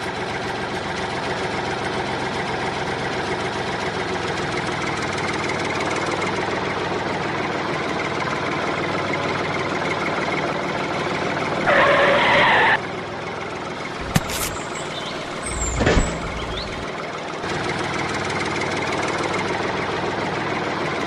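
A vehicle engine runs steadily. About twelve seconds in there is a short, loud hissing burst, followed a couple of seconds later by a sharp click and a low thud.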